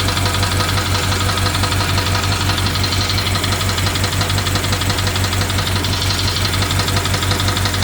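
BMW 750Li's N63 twin-turbo V8 idling steadily with a fast, even ticking over the engine note. The owner reports that the engine is misfiring and that the ticking began after the fuel injectors and high-pressure fuel pump were replaced, and asks whether it could be the timing chain.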